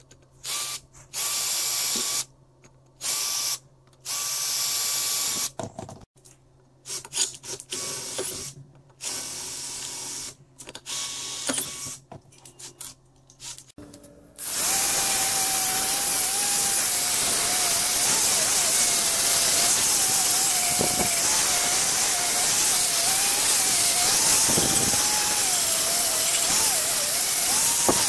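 Cordless drill boring into a cast brass mask in short bursts, its motor starting and stopping again and again. About halfway through, an angle grinder with a round wheel starts and runs steadily against the brass, its pitch wavering as it is pressed on.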